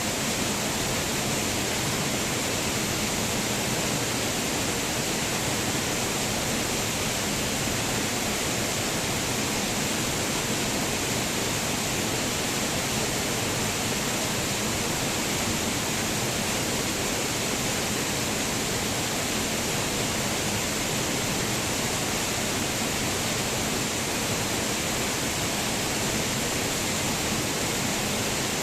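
Waterfall: falling water making a steady, even rush without breaks.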